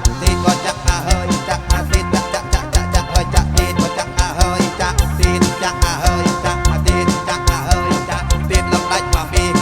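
Live kantrum band playing over a PA sound system, with a fast, steady drum beat under sustained and wavering melodic lines.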